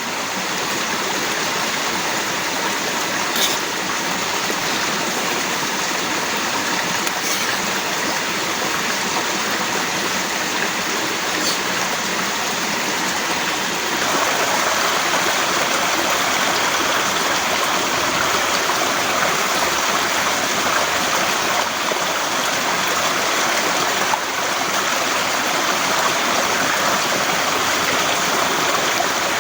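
Heavy rain falling steadily as a dense, even hiss, growing louder about halfway through.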